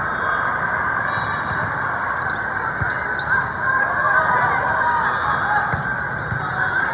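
Volleyball gym din: many overlapping voices from crowd and players, with squeaks of shoes on the court and a couple of dull thuds of the ball about three and six seconds in.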